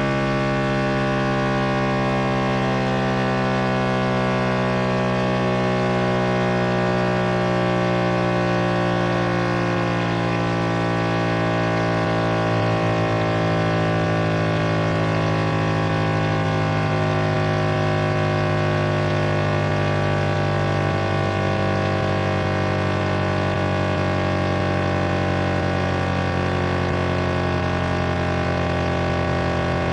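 Synthetic speaker-cleaning water-eject tones: a dense cluster of steady electronic hums, strongest in the bass, slowly drifting in pitch and meant to vibrate a phone speaker's membrane so that trapped water is pushed out.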